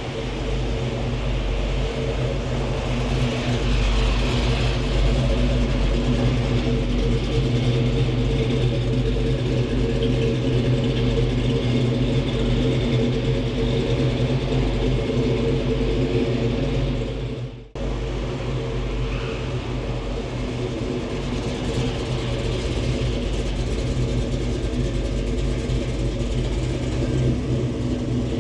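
1970 Dodge Challenger R/T's 440 V8 engine running steadily at idle, with a deep, even hum. The sound breaks off for an instant about eighteen seconds in and carries straight on.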